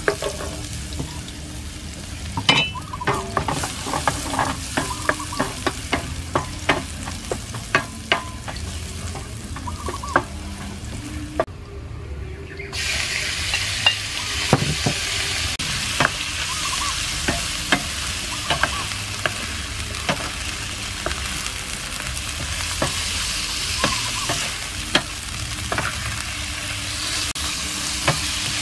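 Minced garlic frying in oil in a nonstick pan, with a wooden spatula scraping and tapping against the pan as it is stirred. About halfway through, raw chicken pieces go in and the sizzle becomes louder and steadier, while the spatula keeps knocking.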